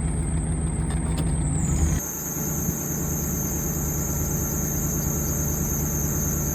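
Vehicle engine idling steadily, with a thin high-pitched squeal over it. About two seconds in the sound changes abruptly and the squeal drops a little in pitch.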